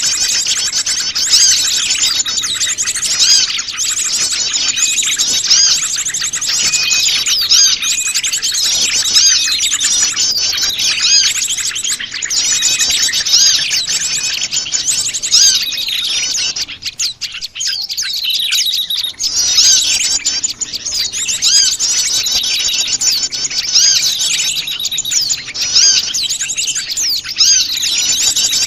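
A dense chorus of many small wild songbirds chirping and twittering at once, calls overlapping continuously, thinning briefly about two-thirds of the way through.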